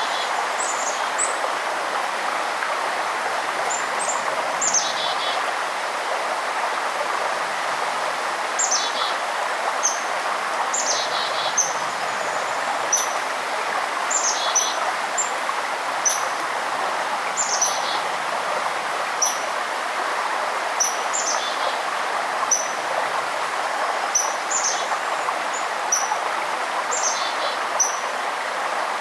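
Steady rushing of a forest stream, with birds calling over it: short high chirps and quick downward-sliding notes, repeated every second or two.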